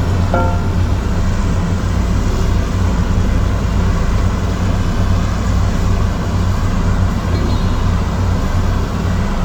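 Komatsu D58E bulldozer's diesel engine running steadily, with a brief high-pitched squeal just under half a second in.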